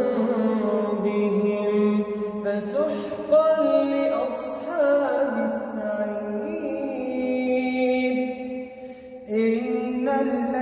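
Quran recitation: a single voice chanting in melodic tajweed style, with long held notes that glide and bend in pitch. There is a short pause for breath about nine seconds in.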